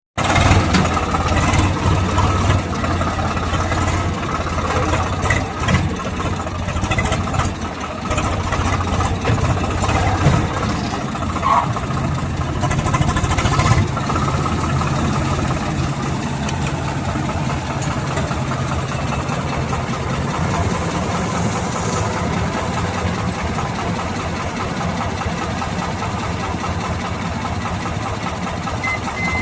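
Combine harvester's engine running steadily in a rice field, its low hum stepping up in pitch about twelve seconds in. A reversing beeper starts near the end.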